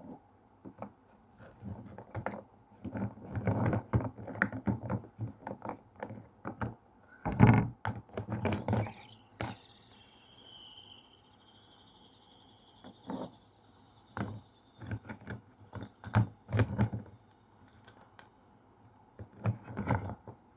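Slate pencils being bitten and chewed, crunching in irregular bursts with short pauses between bites.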